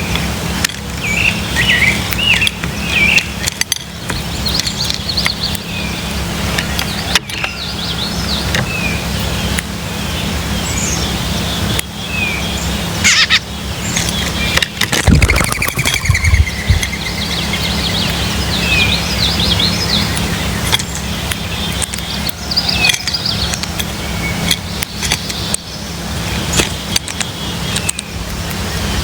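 Wild birds chirping and calling in short, scattered notes over a steady low rumble, with a trill about halfway through and a dull thump just before it.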